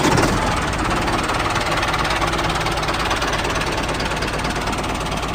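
Tractor engine running steadily with a rapid, even knock, cutting off suddenly at the end.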